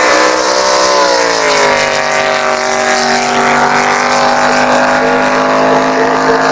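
Drag boat's aspirated 585 big-block Chevrolet V8 at high revs during a run, its pitch easing slightly about a second in and then holding steady.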